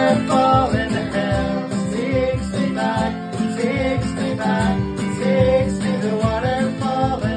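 Live acoustic folk song: strummed acoustic guitar with a singing voice carrying the melody.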